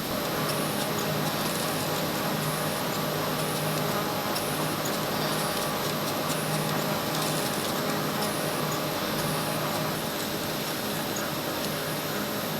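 Factory machinery running steadily with a hum, with short high ticks repeating about every two-thirds of a second.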